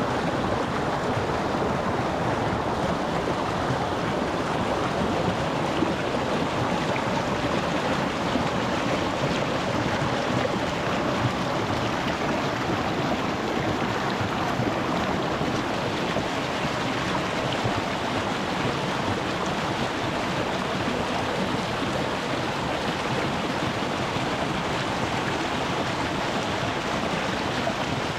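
Small rocky stream running close by, water rushing and splashing over stones in a steady, even rush.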